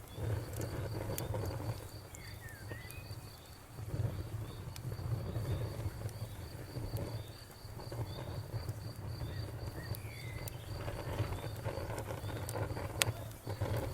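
Cricket chirping steadily, about three chirps a second, over a crackling campfire with scattered sharp pops, the loudest near the end, and a low rumble. A bird gives a couple of short calls.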